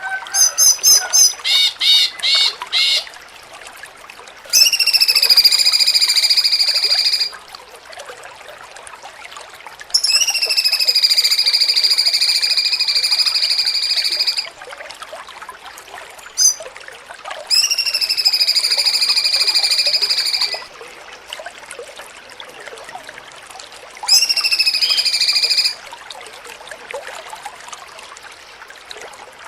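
Cucak cungkok song played as a masteran training recording. It opens with a quick run of short chirps, then gives four long, drawn-out buzzy notes of a few seconds each, separated by pauses, over a steady background hiss.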